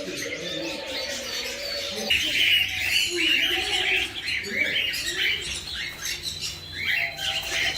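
Many caged birds calling at once, with a dense run of quick chirps starting about two seconds in.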